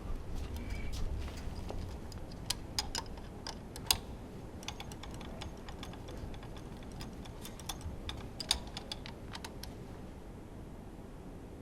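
Irregular light clicks and taps of hand tools and small metal engine parts being handled during disassembly, over a low steady rumble, with sharper taps about four and eight and a half seconds in.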